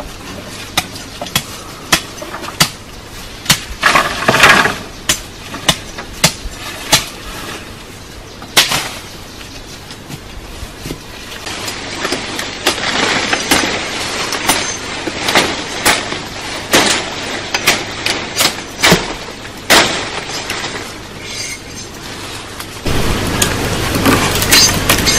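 Wood being chopped or struck: sharp knocks at uneven intervals, some ringing briefly. A steady noise comes in near the end.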